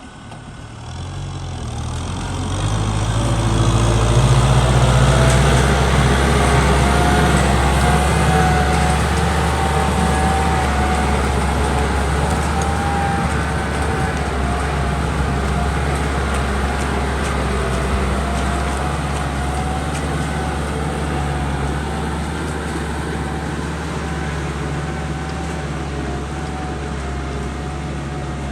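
Kubota M6040 tractor's diesel engine running while plowing a muddy field. It grows louder over the first few seconds, then holds a steady note with a wavering whine above it.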